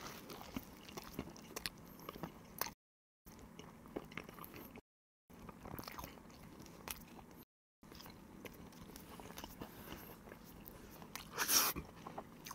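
Close-up mouth sounds of a person biting into and chewing a toasted cheese sandwich (Isaac Toast mozzarella toast): soft crunches and wet chewing clicks, with one louder crunch near the end. Three brief edit cuts drop it to dead silence.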